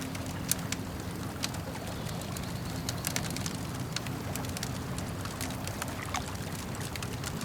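Campfire crackling with frequent sharp pops and snaps over a steady low wash of lapping lake water.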